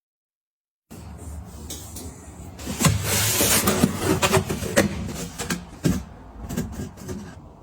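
After a second of silence, packaging and containers are being handled: a dense burst of crinkling and rustling from under a third of the way in to about two-thirds through, with many sharp clicks and light knocks of items being set down.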